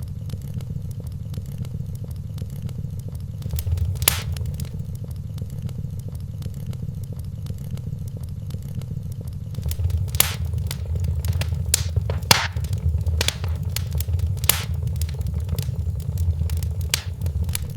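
Wood fire burning in a fireplace: a steady low rumble with scattered sharp crackles and pops, most of them in the second half.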